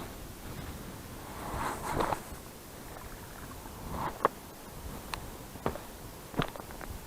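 Close-up handling noises of fishing gear: a brief rustling swish, then about five sharp, separate clicks over the next few seconds.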